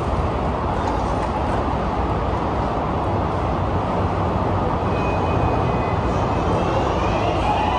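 MARTA rail car standing at the platform, its running equipment giving a steady rumble; near the end a rising whine begins.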